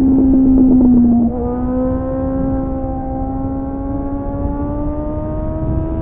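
Suzuki GSF 600 Bandit's inline-four running through an aftermarket SC-Project CR-T clone exhaust with a homemade dB-killer, ridden hard. Loud and rough for the first second, then the note drops in level about a second in and the revs climb slowly and steadily.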